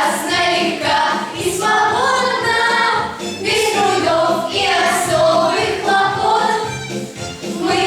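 Several voices singing a song together over a recorded backing track with a steady bass pulse.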